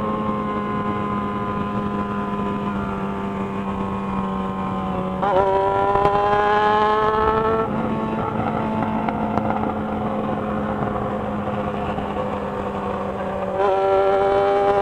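Yamaha XJ6 motorcycle's inline-four engine heard while riding, its pitch slowly sinking as it rolls on light throttle. About five seconds in the throttle opens and it gets louder with a rising pitch for a couple of seconds, then eases back. Near the end it opens up again.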